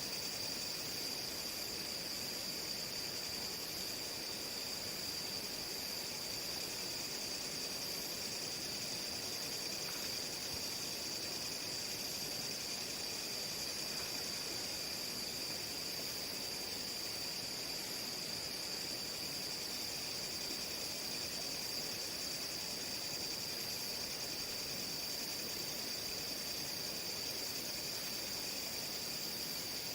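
A steady, high-pitched chorus of crickets or other night insects shrilling without a break.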